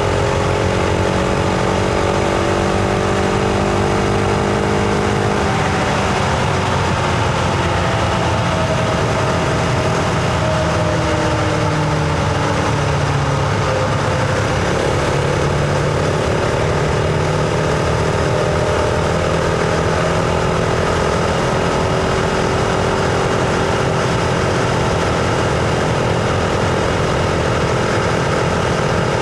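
Husqvarna Vitpilen 701's single-cylinder engine and exhaust under way: engine pitch climbing slowly for about five seconds, dropping off, easing down further a few seconds later, then holding a steady cruise.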